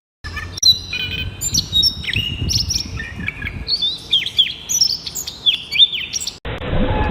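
Birds chirping: a quick, overlapping series of short down-slurred chirps that cuts off suddenly near the end.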